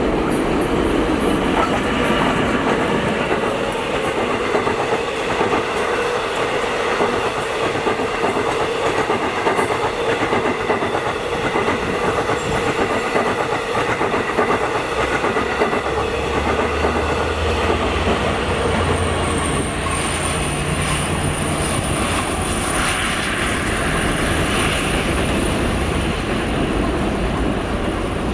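Long Island Rail Road passenger train rolling through a station, wheels clicking steadily over the rail joints under a continuous rumble. A low hum strengthens past the middle, and a thin, high-pitched wheel whine sets in shortly after and holds to the end.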